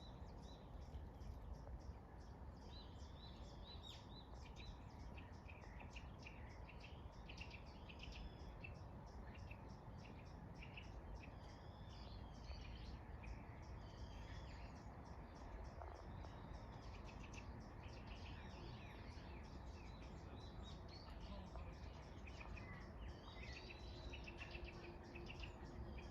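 Faint birdsong: several small birds chirping and calling with short rising and falling whistled notes, over a steady low background rumble.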